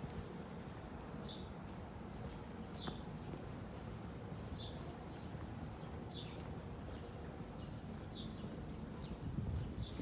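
A small bird calling repeatedly, a short high chirp about every second and a half, over a steady low background rumble.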